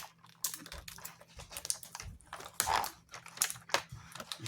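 Cardboard box and packaging being opened by hand: scattered small clicks, taps and rustles, with a longer scraping rustle about two and a half seconds in.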